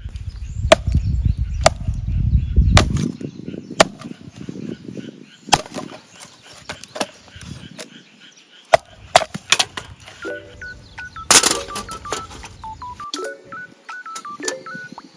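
Firewood being split and knocked, sharp wooden knocks scattered through, with a low rumble in the first few seconds. From about two-thirds of the way in, a simple tune of short beeping notes stepping up and down plays.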